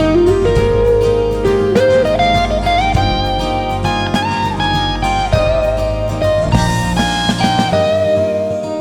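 1979 Greco SV-800 semi-hollow electric guitar played through its PU-2 pickups: a single-note lead line with bent and slid notes, climbing in pitch and then settling on a held note near the end, over ringing lower notes.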